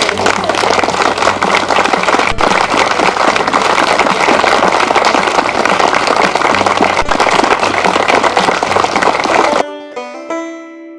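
Audience applause: a loud, dense clapping that cuts off abruptly near the end. Plucked-string music then starts in its place.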